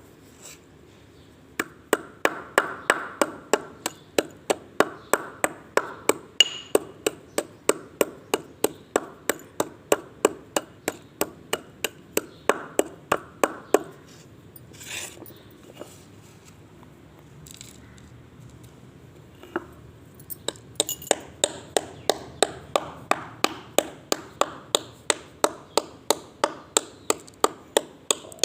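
Slate pencil being crunched in a quick, even rhythm of sharp cracks, about three a second. The crunching pauses for several seconds just past the middle and then starts up again.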